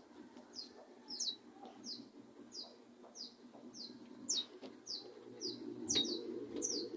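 Small bird chirping over and over: short, high chirps that slide downward, about two a second.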